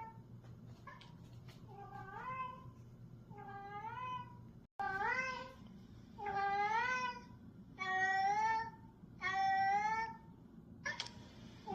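Repeated meows, each a short call rising in pitch, about one every second and a half, louder from about halfway through: a cat-calling sound used to get a cat's attention.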